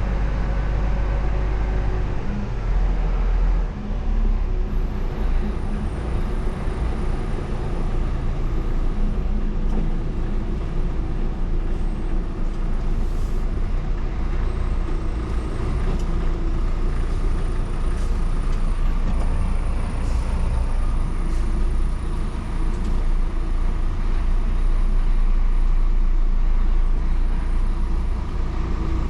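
Scania vacuum truck's diesel engine running under way: a steady low drone whose pitch shifts a little.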